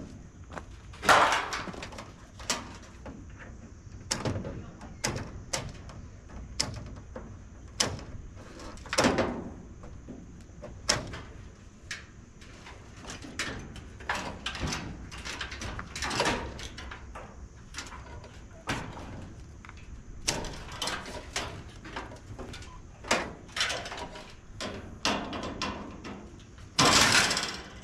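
Irregular metal clanks, knocks and scrapes as a clothes dryer is pulled apart by hand for scrap, with sheet-metal panels and parts being wrenched loose and handled. Louder bangs come about a second in, around the middle and near the end.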